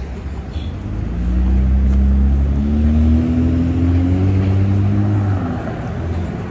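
A motor vehicle's engine accelerating: a low, loud engine note that climbs steadily in pitch for a few seconds, then eases off.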